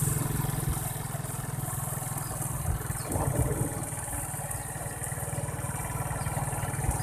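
An engine running steadily nearby, with a fast even pulse and a high hiss over it.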